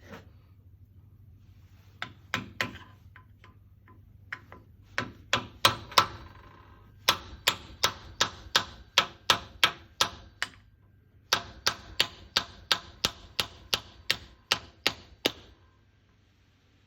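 Sharp metal taps, like a tool striking a part, coming about three a second in two steady runs, with a few scattered knocks before them.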